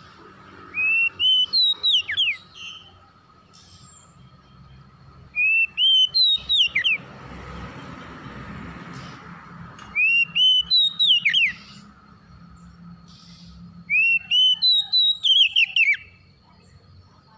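Oriental magpie-robin (kacer) singing. The same loud whistled phrase comes four times, a few rising notes followed by a quick run of falling slurs, with pauses of a couple of seconds between phrases.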